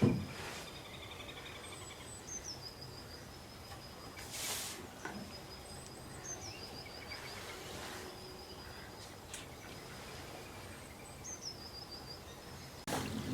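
A songbird repeating the same short, high phrase three times, a quick falling run of notes about every four and a half seconds, over faint outdoor background with a couple of soft knocks. A loud rush of pouring rain starts just before the end.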